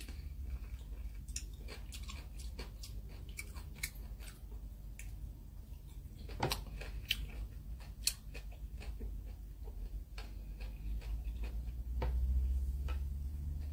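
A person chewing a whole kumquat, peel included, close to the microphone: irregular small clicks from the mouth over a low steady hum.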